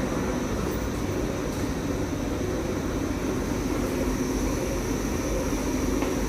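Electrolux condenser tumble dryer running: a steady mechanical hum and whir of its motor and fan, with a faint high whine over it.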